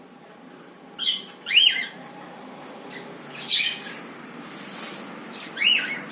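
Cockatiels calling: two harsh squawks and two arched, rising-then-falling whistled calls, spread across the few seconds.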